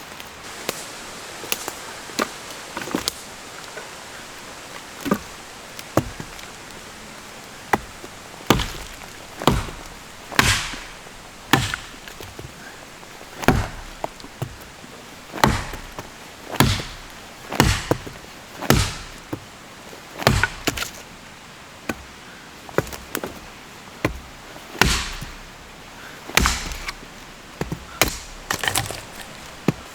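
Wood being chopped: irregular sharp chopping strokes, lighter and sparser for the first several seconds, then heavier blows coming about once a second.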